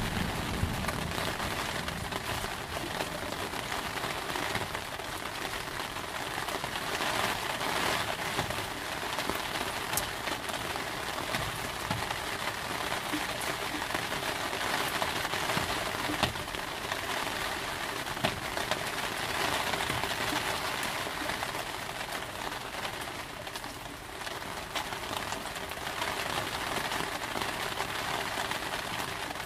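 Steady rain falling, an even hiss with a few sharper drip ticks now and then. A low thunder rumble dies away at the very start.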